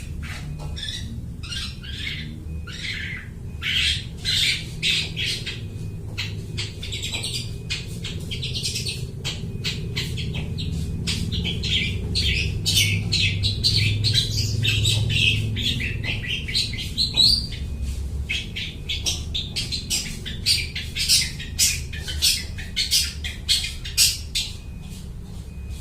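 Long-tailed shrike (cendet) singing a rapid, continuous run of short, harsh chattering notes, mimicking the calls of other birds.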